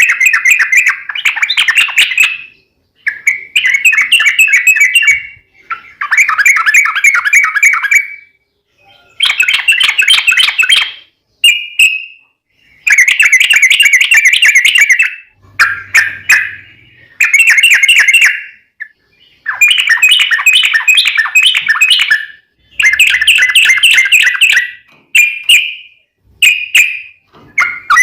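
Yellow-vented bulbul (trucukan) singing its long, rapid, rolling chattering phrases. Each burst lasts about one to two seconds, repeated about a dozen times with short pauses between them.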